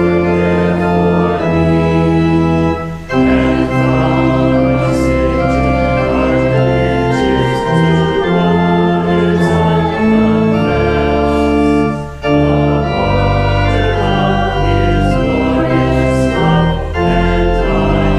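Organ playing a hymn in sustained, changing chords, with a congregation singing along; the sound dips briefly between phrases about three seconds in and again about twelve seconds in.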